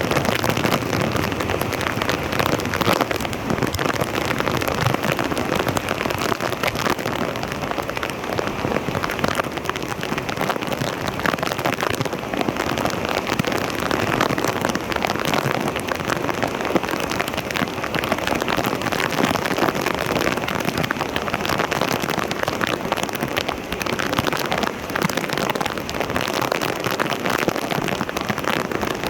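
Water splashing steadily in a dense, even hiss.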